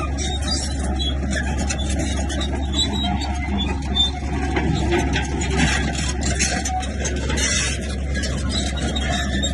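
Komatsu bulldozer's diesel engine running at a steady low drone, with irregular clanks and rattles over it.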